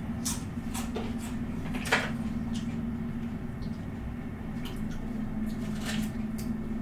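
A person eating spicy instant noodles up close: irregular wet mouth clicks and smacks of chewing, with one louder click about two seconds in, over a steady low hum.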